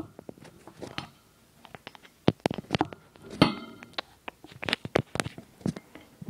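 Pet parrot making irregular sharp clicks and clinks, with one short pitched call about three and a half seconds in.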